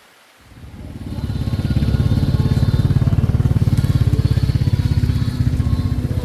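Motorcycle engine running, rising in level over the first second or so and then holding steady.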